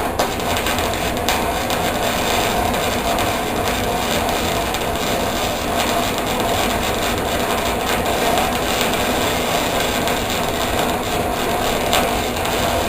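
Electric arc welding on steel chain: a steady crackling hiss that starts abruptly and cuts off abruptly, as one long weld bead is laid.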